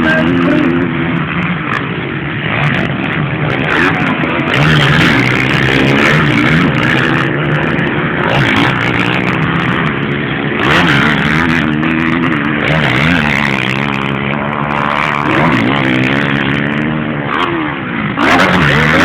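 Motocross motorcycle engines revving hard, several at once, their pitch rising and falling over and over as the riders work the throttle.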